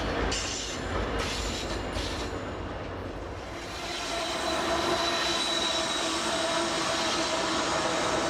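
Union Pacific freight train approaching on a curve, its diesel locomotives running; from about four seconds in a steady whine with several held tones comes in and grows louder as the lead locomotive draws near. The first few seconds hold a rushing noise with a heavy low end.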